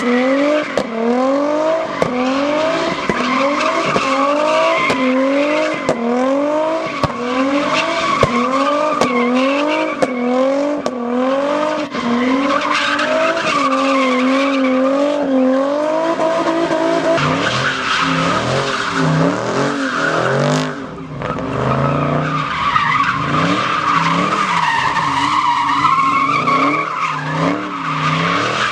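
A vehicle engine held at high revs during a burnout, its pitch rising and falling about once a second, with tires skidding and squealing. About halfway through, the engine note drops lower and becomes more uneven, with a brief lull after about twenty seconds.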